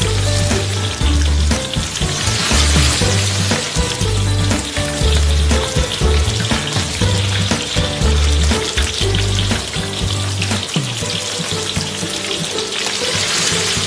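Food sizzling and frying in a wok as it is stir-fried, a steady hiss, over background music with a pulsing bass beat that drops out near the end.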